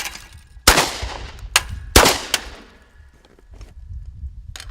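Two small-calibre handgun shots, about a second and a half apart, each followed by a ringing echo. A few fainter sharp cracks come between and after them.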